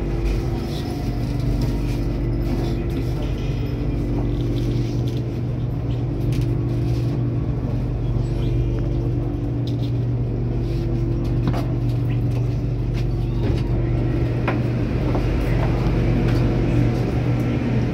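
Steady low hum and rumble inside a BTS Skytrain car as it draws into a station and stands at the platform, with a few faint clicks.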